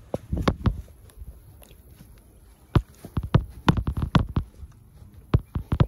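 Irregular knocks and clunks of a car battery being handled and set into its tray under the hood, test-fitting the new battery.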